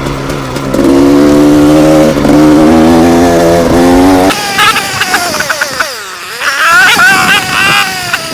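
Gas Gas EC250 two-stroke enduro engine revving as it pulls: the pitch climbs, breaks at a gear change about two seconds in, and climbs again. Just past halfway it falls off, sinks low, then rises once more.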